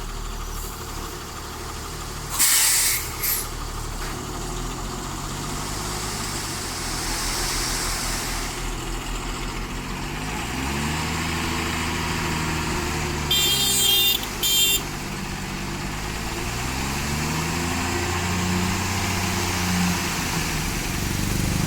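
Diesel engine of a Tata 3718 tipper truck running and revving up and down repeatedly as it unloads. Short sharp air-brake hisses come about two seconds in and twice more about halfway through.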